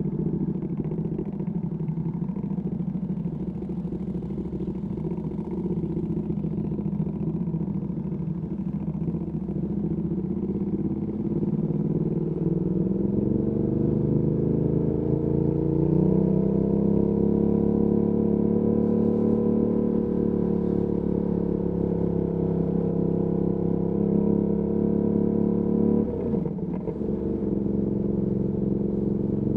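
Ducati Panigale V2S twin-cylinder engine breathing through a Termignoni exhaust, heard from the rider's seat. It runs at low revs, climbs smoothly in pitch over a few seconds about halfway through, holds a steady note, then drops suddenly near the end.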